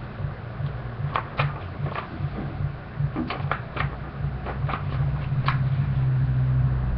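Sheet of origami paper being handled and folded, with about nine short crackles of paper creasing between about one and six seconds in, over a steady low hum.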